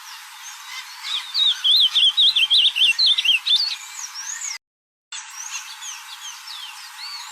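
Ultramarine grosbeak (azulão) singing one loud, rapid warbling phrase of quick up-and-down notes, with fainter chirps of other birds around it. The sound cuts out completely for about half a second after the phrase.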